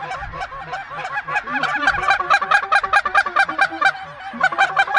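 A flock of geese honking, many overlapping calls repeated in quick succession, growing louder partway through.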